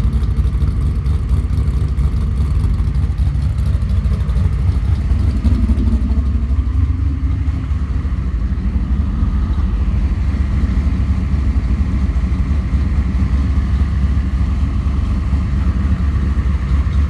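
Engine idling steadily through a new Mufflex exhaust system with stainless headers and a MagnaFlow muffler, a deep, even exhaust rumble.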